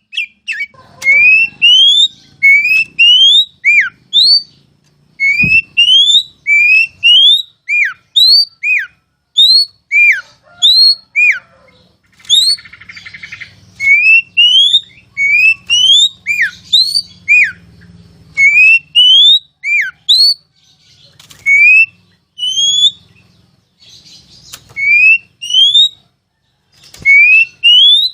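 Oriental magpie-robin (kacer) singing a loud run of clear whistles, mostly rising slurs with some falling notes, repeated about one or two a second in the 'ngeplong' style used as training song for captive birds.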